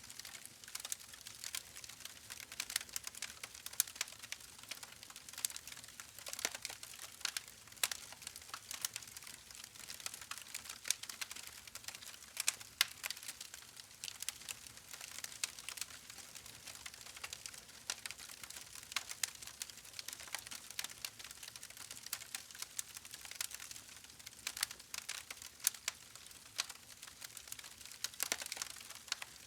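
Campfire burning with a steady hiss and constant irregular crackling and popping of the burning wood.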